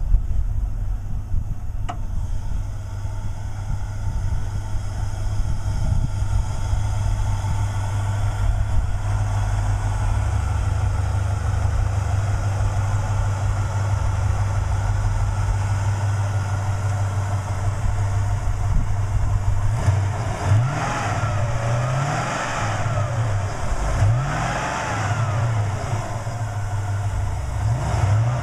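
1996 Chevrolet Impala SS's 5.7-litre LT1 V8 idling steadily, then revved in several short blips during the last third, each rising and falling back to idle.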